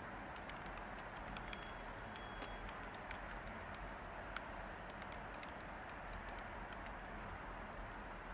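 Steady white-noise hiss with light computer-keyboard typing: scattered, irregular key clicks, thinning out in the second half.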